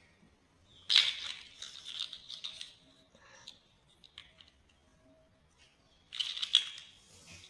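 Small plastic building pieces being handled. There are two bursts of rustling and clicking, about a second in and again near the end, with a few light clicks between.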